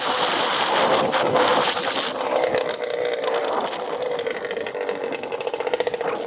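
Motorcycle engine running steadily, with an even, rapid pulsing in the second half.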